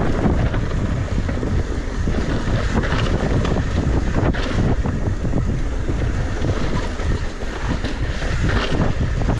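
Wind buffeting the microphone in a steady low rumble as a mountain bike descends a loose dirt trail at speed, with faint ticks and rattles from the bike and trail mixed in.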